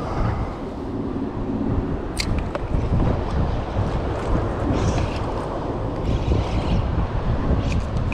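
Strong wind buffeting the action camera's microphone, a dense, uneven low rumble, with a sharp click about two seconds in and a few brief hissing bursts.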